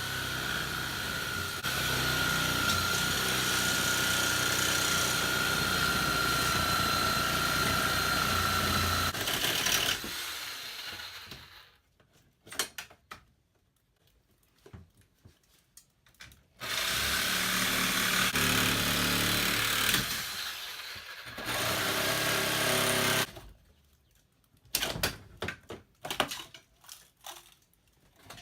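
A power tool motor runs steadily with a high whine for about ten seconds, then stops. It runs again for about six seconds in the middle, with scattered knocks and clicks in the pauses and near the end.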